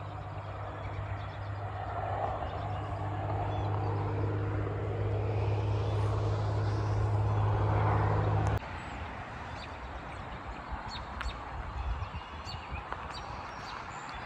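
A steady, low motor-vehicle engine hum with rising road noise, cutting off suddenly about eight and a half seconds in. After that, faint bird chirps are heard.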